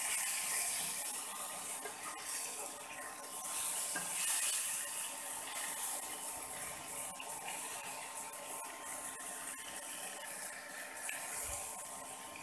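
Green mango pieces sizzling gently in hot mustard oil in a nonstick wok on low heat, stirred and turned with a wooden spatula that scrapes and taps faintly against the pan. The hiss swells while the pieces are tossed and settles between strokes.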